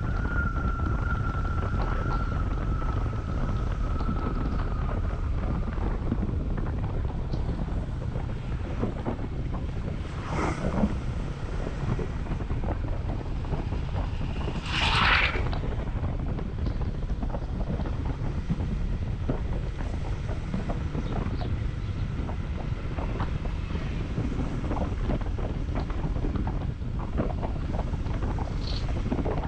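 Wind rushing over an action camera's microphone on a moving motorcycle, a Honda CB150X, with its engine running underneath. A thin whine sags slightly and fades over the first few seconds. A short, louder, higher-pitched sound stands out about halfway through.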